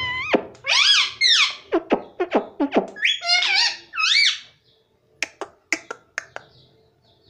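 Pet parrot calling: loud, swooping whistle-like squawks over the first half, then a string of short sharp clicks and chirps.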